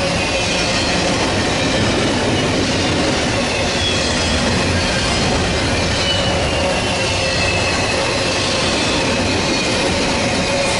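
Freight train cars rolling past on the rails, a loud, steady rumble and clatter with faint thin wheel squeals drifting in pitch above it.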